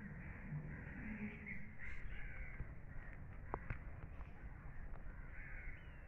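Faint bird calls over a low background hiss, with two light clicks about three and a half seconds in.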